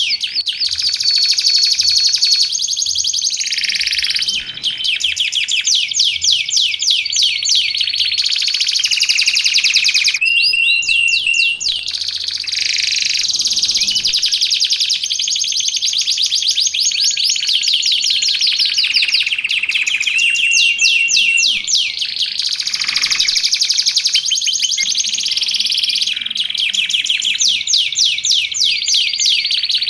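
Domestic canary singing without pause in fast rolling trills, changing phrase every few seconds, with a few held whistled notes in between.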